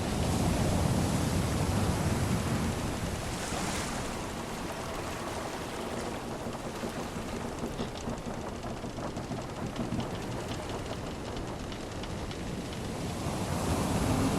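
Sea waves washing in a steady surge of noise, swelling near the start and again near the end.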